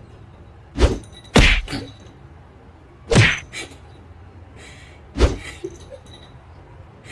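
A series of sudden thumps: four loud ones spread over about five seconds, some followed by a softer second knock.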